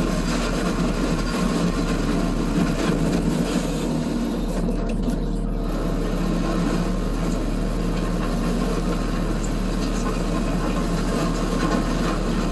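Case SV280 skid steer's diesel engine running steadily at a constant level.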